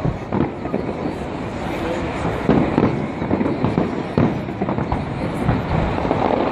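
Fireworks bursting in quick succession: many overlapping booms and bangs with no pauses between them.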